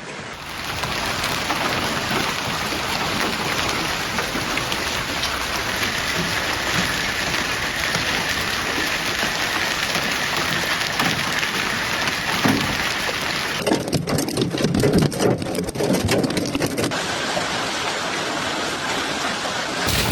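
Heavy rain and ice pellets pelting down in a dense, steady hiss. For about three seconds, roughly two-thirds of the way in, the sound turns coarser, with a deeper rumble and distinct clattering impacts.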